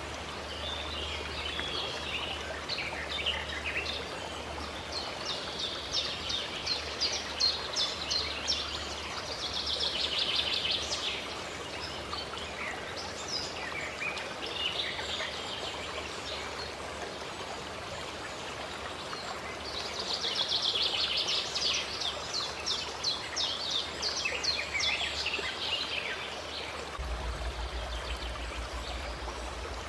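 Steady flowing water from a small stream or water source, with songbirds calling over it in several bouts of rapid chirps and trills.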